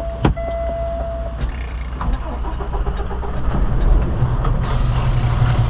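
Semi truck's diesel engine being restarted: a steady electronic tone stops about a second and a half in, then the engine runs with a steady low rumble that grows louder. A hiss with a high thin whine comes in near the end.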